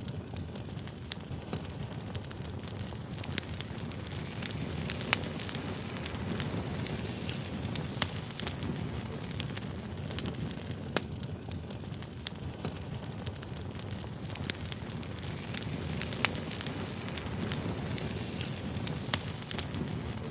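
Firewood burning, with a steady low rush of flames and frequent sharp crackles and pops scattered throughout.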